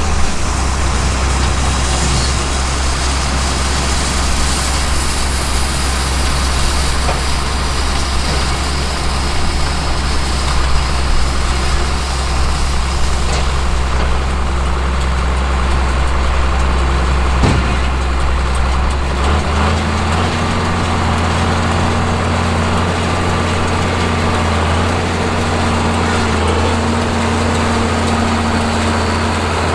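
John Deere 4430 tractor's six-cylinder turbocharged diesel running steadily while working with a round baler. Its low engine note steps up a little about two-thirds of the way through, and there is a single sharp click just before that.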